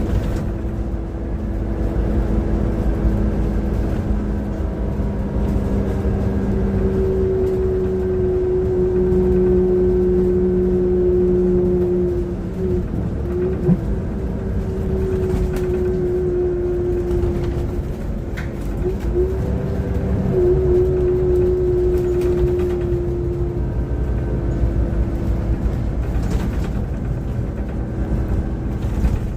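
Transperth bus engine and drivetrain running under way, heard from inside: a deep rumble with a steady whine on top, which the uploader calls a bad engine sound. The whine wavers and drops briefly twice, about twelve and nineteen seconds in, then settles back.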